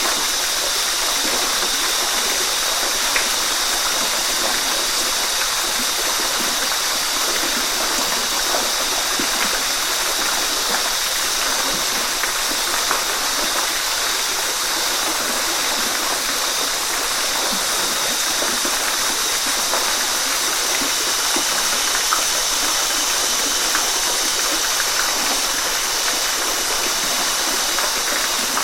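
Waterfall: a steady rush of falling water, with small splashes scattered through it.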